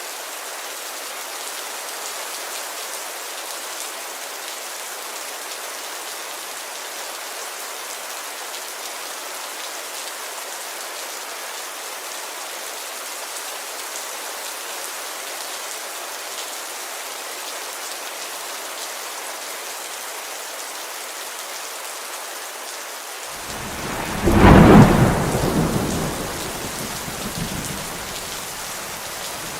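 Steady rain pattering on a window, with one peal of thunder rolling in near the end, loud at first and fading over a few seconds.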